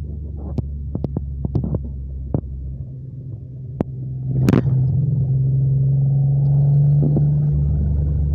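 Datsun 260Z 2+2's straight-six engine heard from inside the cabin, running at steady revs. A scatter of sharp clicks and knocks comes in the first few seconds and a louder knock about four and a half seconds in; after that the engine runs louder and steady.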